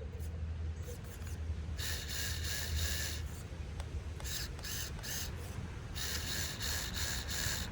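Axial SCX24 micro RC crawler's small electric motor and drivetrain gears whining in bursts of throttle, with two longer bursts and a few short ones, as the crawler sits stuck on an obstacle.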